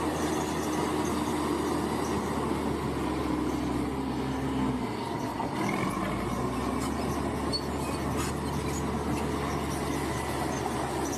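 Crawler bulldozer at work: its diesel engine runs steadily along with the metallic clatter of its tracks. The engine's low hum dips briefly about five seconds in.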